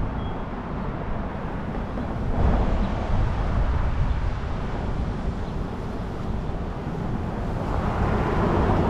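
Road traffic passing, a steady rush of tyre and engine noise that swells louder about two and a half seconds in and again near the end.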